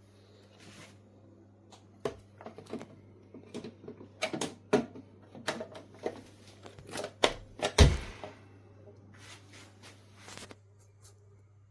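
Irregular clicks, taps and knocks of hard objects being handled, the loudest a heavier thump about eight seconds in, over a faint steady hum.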